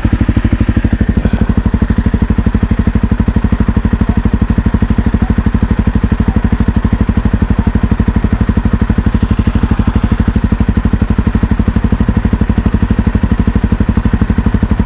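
Honda CRF250L's single-cylinder four-stroke engine idling steadily, its firing pulses even and unchanging.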